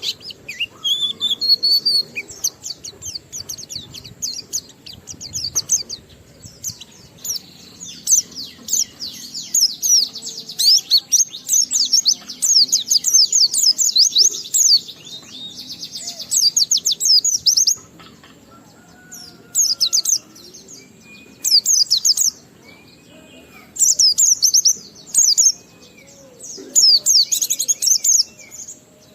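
White-eye (pleci) singing its long, rapid twittering song: dense high chirps in a long unbroken run through the first half, then shorter bursts with brief gaps. Fainter, lower whistled notes sound underneath.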